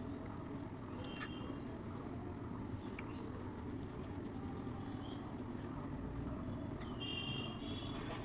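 Steady low background rumble, with a few brief high chirps about a second in and again near the end.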